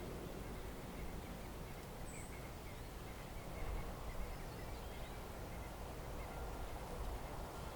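Outdoor ambience: a steady low rumble with a few faint, high bird chirps about two seconds in.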